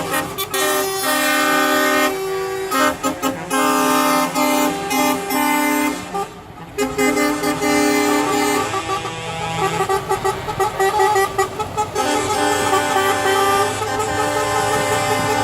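Truck air horns sounding in long blasts, one after another and overlapping, at several different pitches, over the low running of truck engines.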